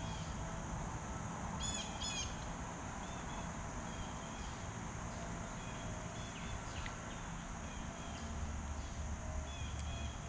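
Birds chirping and calling in short scattered notes, over a steady high-pitched hiss and a constant low rumble.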